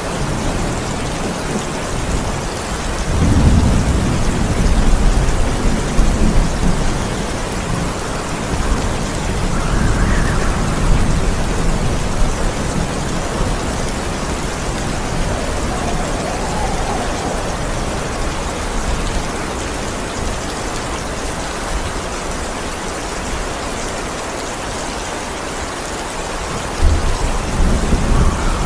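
Steady heavy rain with rolling thunder: a long low rumble a few seconds in, a weaker one around ten seconds, and another starting near the end.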